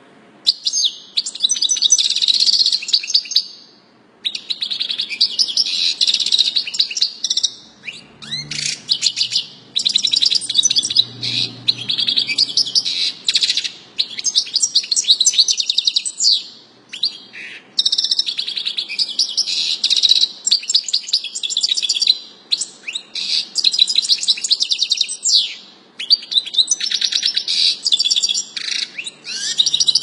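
Caged pet bird singing in long, rapid chirping trills, phrases of a few seconds each broken by short pauses.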